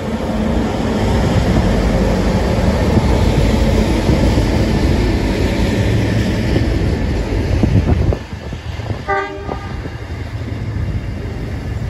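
Diesel-hauled cement freight train passing close by: the loud engine rumble of its trailing locomotive, VL356, going past, then cement tank wagons and empty flat wagons rolling along the rails. The rumble drops sharply about eight seconds in as the loaded section clears, and a short stuttering pitched tone sounds about nine seconds in.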